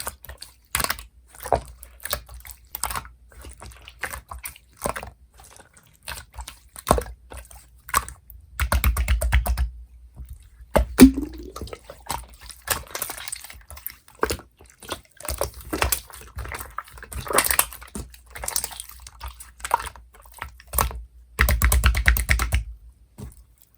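Hands squishing and stretching clear slime, making sticky clicks and small wet pops, with dense runs of crackling clicks about nine seconds in and again about twenty-two seconds in.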